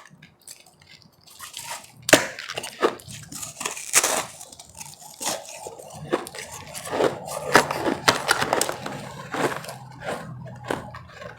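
Close-miked crunching of hard ice being bitten and chewed: a quiet start, then from about two seconds in a run of irregular sharp cracks.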